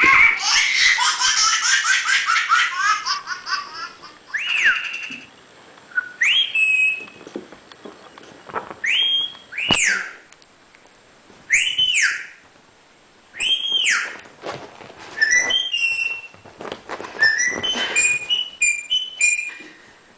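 Pet bird whistling and chattering: a burst of rapid chatter, then a run of single whistles that rise and fall, about two seconds apart, ending in quick varied chirps.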